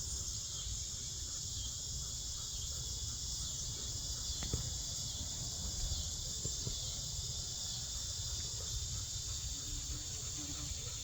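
A steady, high-pitched chorus of insects over a low rumble, with a faint low hum coming in near the end.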